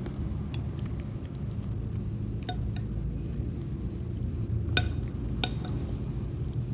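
A few sharp, light clinks of an eating utensil against tableware, about five in all, with the loudest two close together about two-thirds of the way through. They sound over a steady low rumble.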